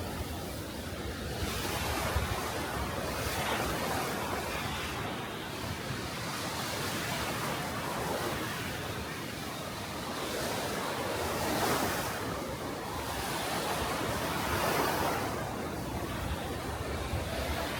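Small sea waves breaking and washing up a sandy beach, a steady rush that surges and fades every few seconds.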